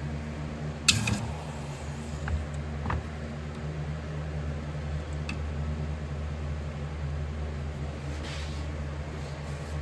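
Steady low machine hum from running equipment at a metal-pouring station. A single sharp knock comes about a second in, with a few lighter taps after it and a brief soft hiss near the end.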